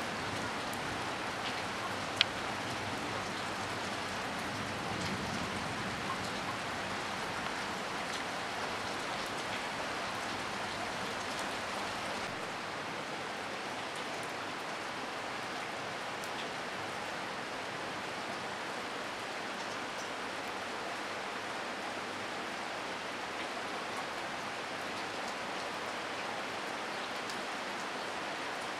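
Heavy rain falling steadily, with individual drops ticking close by. One sharp tick about two seconds in.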